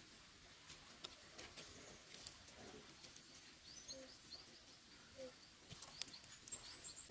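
Near silence with faint bird chirps, high and short, mostly in the middle and near the end, and a few scattered light clicks and taps.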